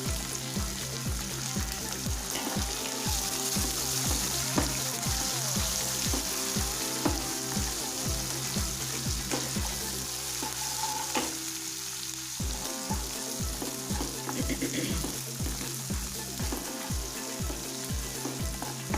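Chopped green chilies and sliced garlic sizzling in hot oil in a kadhai as they are stirred in, the flame just switched off. Background music with a steady beat plays underneath and drops out briefly about halfway through.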